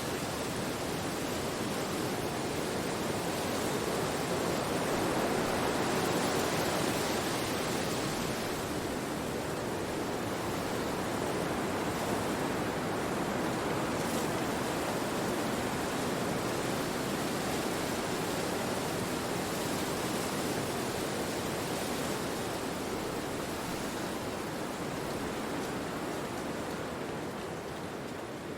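Wind rushing through forest trees as a steady, even noise that swells in a gust about five seconds in and eases off near the end.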